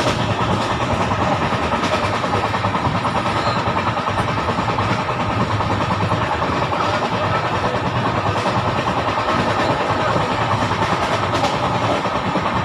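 Steady running noise of a moving passenger train heard from inside the coach: an even rumble and rattle of the carriage.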